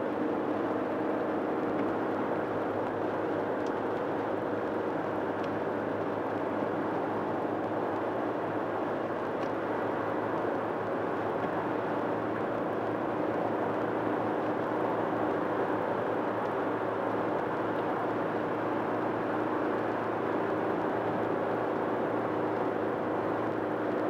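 Steady road and engine noise inside a car cabin while driving at highway speed: a constant rush of tyres and wind with a low engine hum.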